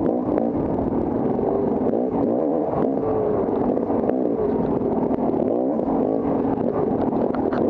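Off-road motorcycle engine being ridden hard, its pitch rising and falling constantly with throttle and gear changes, with a few short knocks and clatter along the way.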